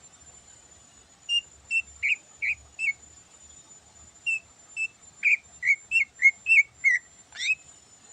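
Cucak ijo (greater green leafbird) singing in two phrases of short, loud whistled notes: five, then a longer run of about ten that ends in a quick rising sweep.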